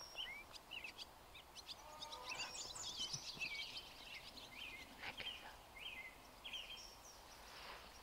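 Small songbirds calling: a scattering of short, high chirps and twittering notes throughout, fairly faint.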